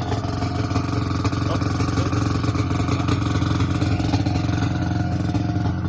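Yamaha VMAX 600 snowmobile's two-stroke engine idling steadily.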